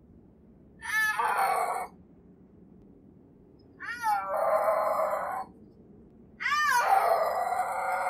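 Snow leopard calling three times. Each call opens with a short rising-and-falling cry and runs on as a harsh, drawn-out sound lasting from about one to nearly two seconds. A faint steady hiss lies underneath.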